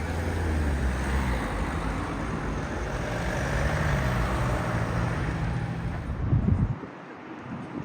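Street traffic noise from a passing vehicle, with a steady low rumble and a faint motor whine. A short loud thump comes about six and a half seconds in, after which the low rumble drops away.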